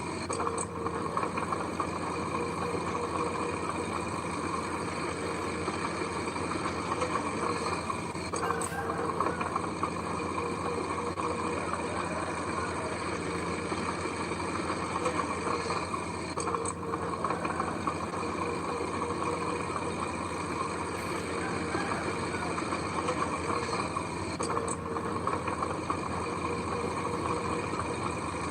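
Diesel engine of heavy earth-moving machinery running steadily at a low, even speed.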